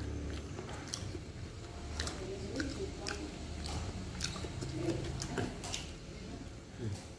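Close-up chewing and biting of chicken satay: wet mouth clicks and smacks every half second to a second, with a few short murmurs. A low steady hum runs underneath.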